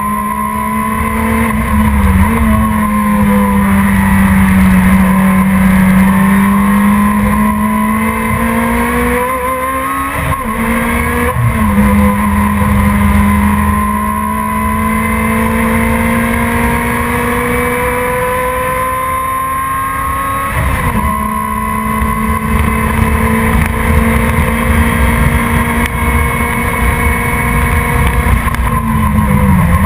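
Production sports car racing engine running hard without a break, its pitch climbing slowly and then dropping back sharply four times.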